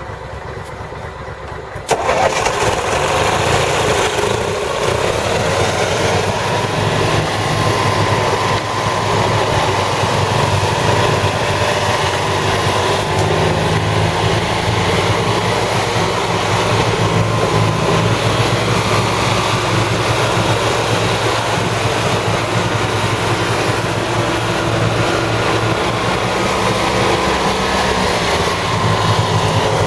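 Amphibious six-wheeler ATV's engine running steadily, jumping suddenly louder about two seconds in.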